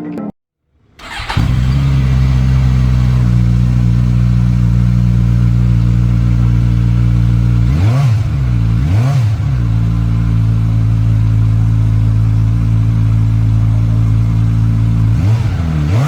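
Suzuki Katana's litre-class inline-four engine idling steadily, with two quick throttle blips, one right after the other, around the middle and another near the end.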